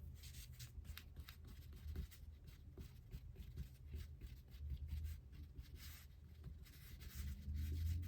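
Quick, repeated rubbing strokes on watercolour paper as dried masking fluid is cleared off.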